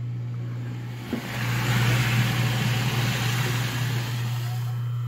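Kitchen garbage disposal motor running with a steady hum while water from the filled sink rushes down through it, the rushing growing louder about a second and a half in. The sink is draining through the disposal after the blockage was cleared.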